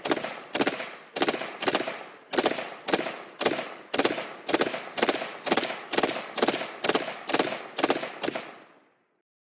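AR-15 rifle fired in a rapid, steady string of semi-automatic shots, about three a second, emptying a 50-round Magpul drum magazine. The string ends near the end.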